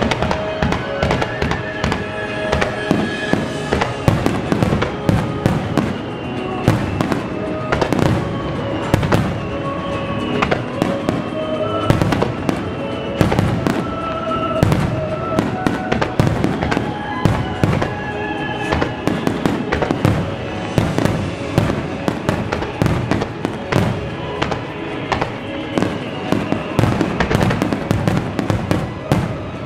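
Firework display at full barrage: aerial shells and ground fountains bursting in quick succession, several bangs a second, with music playing underneath.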